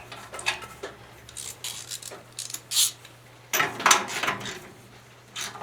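Metal hand tools clinking and scraping in irregular short knocks, with a denser run of clatter about two-thirds of the way through, as a spark plug socket and ratchet are handled while the new spark plug goes into the small engine.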